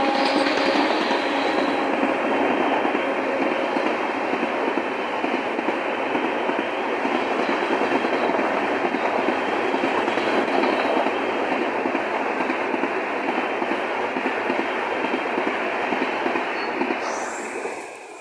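Train running on the rails, a steady loud rumble and rattle of wheels and carriages, dropping away sharply near the end.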